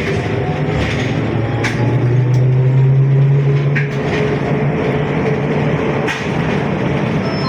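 ZiU-682G trolleybus running, heard from inside the cabin: a steady drive hum with a low tone that swells for a couple of seconds and then drops back. A few sharp knocks come through.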